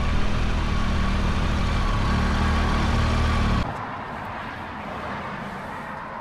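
Motorcycle engine running, then cutting off abruptly a little over halfway through, leaving a quieter steady hiss.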